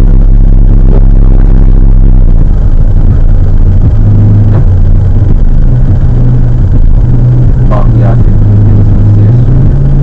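Car engine and road rumble heard from inside the cabin through a dashcam microphone, loud, as a steady low hum that shifts in pitch a couple of times. A few brief higher sounds cut in about eight seconds in.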